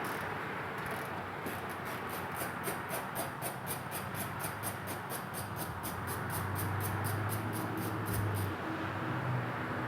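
Ratchet wrench clicking rapidly and evenly, about five clicks a second for some seven seconds, as it backs out the screws holding the truck's under-engine splash shield. A low hum comes in near the end.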